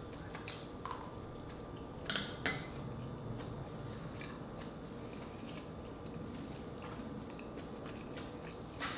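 Close-up mouth sounds of a person chewing a mouthful of mussel and rice, with a few soft wet smacks: two a little after two seconds in and one near the end.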